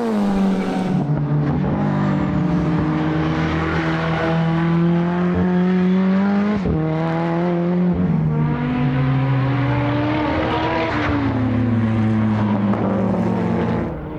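Modified time attack race car's engine at full throttle on track: after a drop in revs at the start, the pitch climbs steadily, falls sharply at two upshifts about seven and eight seconds in, climbs again, then sinks gradually as the car eases off or goes by near the end.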